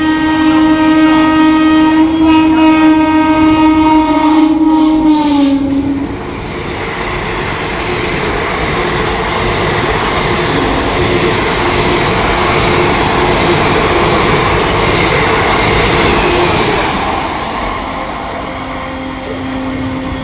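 A WAP-4 electric locomotive sounding its horn in one long blast of about five seconds, the pitch dropping as it ends, then the train rushing past with wheel clatter for about ten seconds before fading. A faint horn note sounds again near the end.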